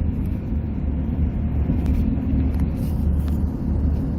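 Pickup truck driving at road speed: a steady low rumble of engine and road noise.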